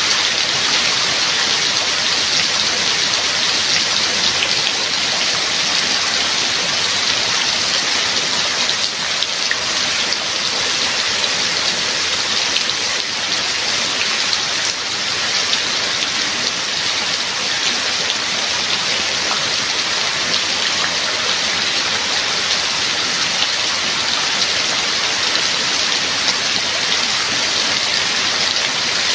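Steady heavy rain falling, an even hiss with scattered fine drop patters and no break in intensity.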